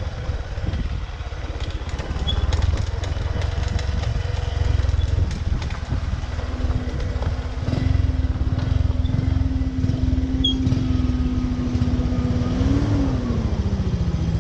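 Small motorbike engine running under way, with a steady low rumble of wind and road noise. The engine note holds steady for several seconds, then rises and falls near the end.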